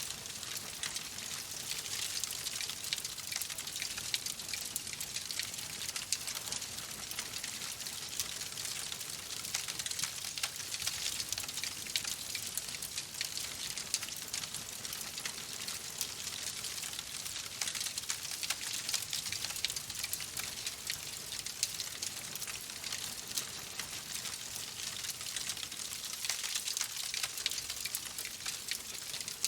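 Wood fire crackling in a fireplace: a steady high hiss packed with many small, quick pops.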